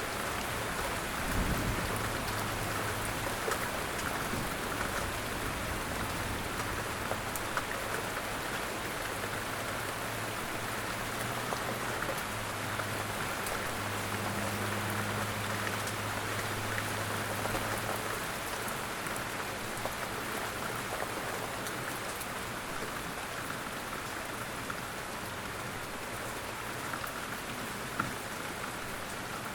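Light rain falling steadily, with scattered individual drops striking close by. A low hum comes and goes underneath, and there is a single thump about a second and a half in.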